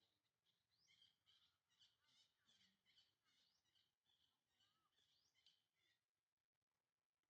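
Faint chirping of small birds, a quick string of high chirps and short rising whistles that stops about six seconds in.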